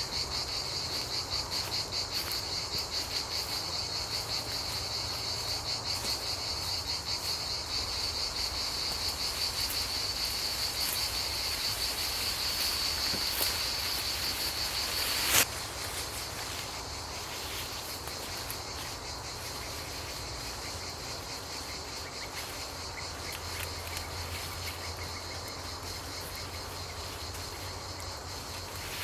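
Crickets trilling in a steady, high, rapidly pulsing chorus that stops abruptly with a sharp click about halfway through; a quieter outdoor ambience with faint ticks follows.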